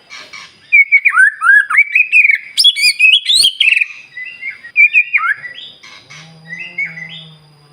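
White-rumped shama (murai batu) singing loud, fast, varied song: strings of whistles and chirps that slide up and down in pitch, quickening through the middle. Near the end the song thins out over a low drawn-out note.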